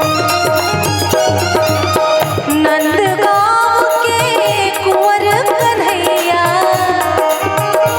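Instrumental interlude of a Braj Holi rasiya folk song: a hand drum keeps a steady beat under a melody line that bends and slides in pitch.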